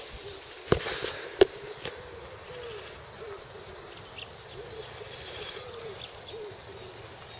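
A pigeon or dove cooing, a repeated series of soft low hoots from about two seconds in, with two sharp knocks just before it.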